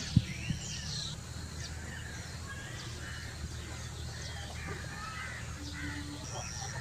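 Several birds chirping and calling over one another, with a steady low hum underneath. Two sharp low thumps sound in the first half second, the first the loudest.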